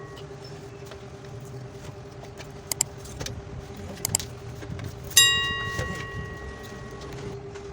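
Metal tools and parts handled on a workbench: a few light metallic clicks, then about five seconds in one sharp clank that rings and fades over about two seconds, over a steady hum.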